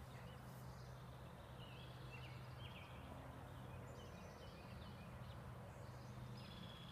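Faint outdoor background noise with a low steady hum and a few short, distant bird chirps.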